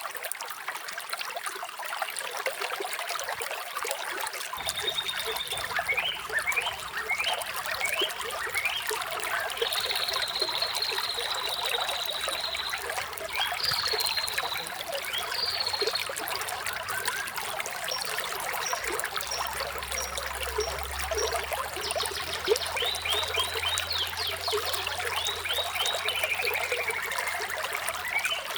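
Water trickling and flowing steadily, with small birds chirping over it in short calls, trills and brief rising and falling whistles.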